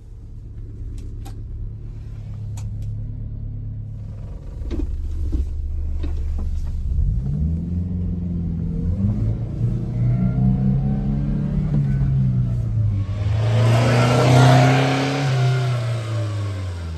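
The 1999 Subaru Sambar kei truck's small four-cylinder engine is running steadily at first, with a few clicks about four to five seconds in. Its note then climbs and falls as it is revved, loudest with a rush of noise near the end before dying down.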